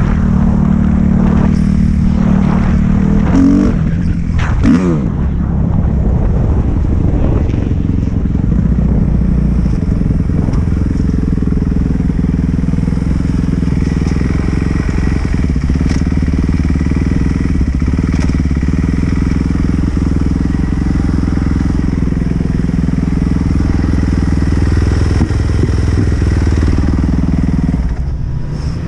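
Dirt bike engine running, with a quick rev up about four seconds in, then running steadily under way; the sound dips briefly near the end.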